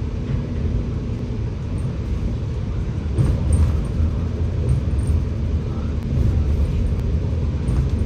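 Scania K94UB bus running on the road, a steady low engine and road rumble that grows louder about three seconds in and again near six seconds.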